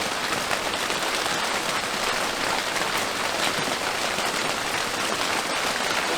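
Rain falling steadily: a dense, even hiss of drops with no let-up.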